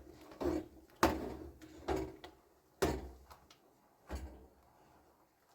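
Kitchenware being handled and set down: about five separate sharp knocks and clunks, roughly a second apart, each dying away quickly.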